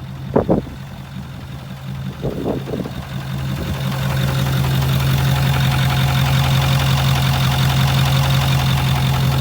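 Ford F-450's 6.4 L Power Stroke V8 diesel idling, with a knock the owner takes for a failing connecting rod bearing (rod knock), though he notes it is not as bad right now. The engine grows louder about three to four seconds in and then runs steadily; two brief sharp sounds come in the first three seconds.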